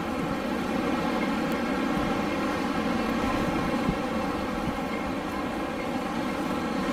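Wind blowing in a steady, unbroken rush with no gusts or breaks.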